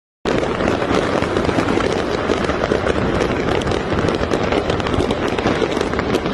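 Dense barrage of fireworks and firecrackers going off together: a loud, unbroken crackle of many overlapping bangs.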